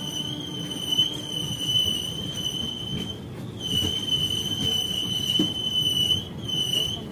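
Passenger express train running, heard from on board: a low rumble of wheels on the track under a steady high-pitched whine that drops out briefly twice.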